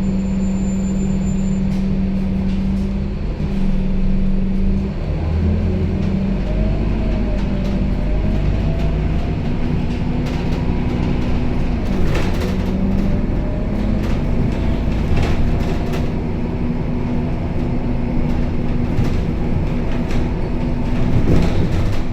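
Scania K270UB city bus's diesel engine running under way, heard from inside the bus: a steady low hum that changes pitch about five seconds in, with a faint rising whine and a few short rattles from the body.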